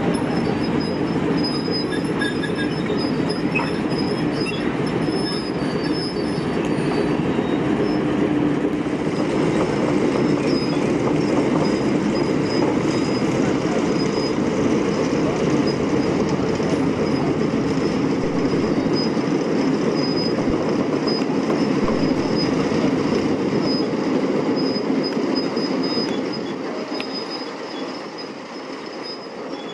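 Diesel shunter 13201 running as it moves a rake of locomotives at walking pace, its engine humming steadily with a thin high wheel squeal over it. The sound drops somewhat near the end.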